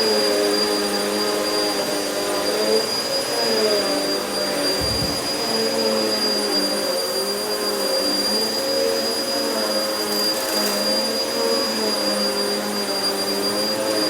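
Vacuum cleaner running continuously over carpet, with a steady high whine. Its lower motor tone wavers up and down in pitch as the load on it changes.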